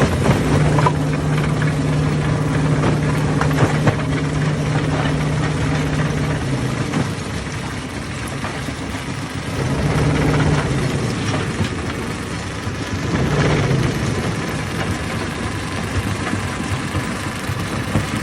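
Hammer stone crusher running: a steady engine drone whose low tone drops out and comes back a few times, with scattered knocks of rock.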